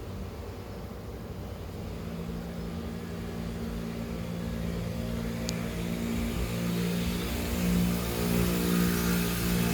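A motor vehicle's engine humming steadily and growing gradually louder, as of a vehicle drawing near.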